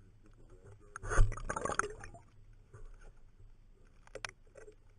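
Water splashing in one loud burst about a second in, lasting about a second, followed by a few faint ticks about four seconds in.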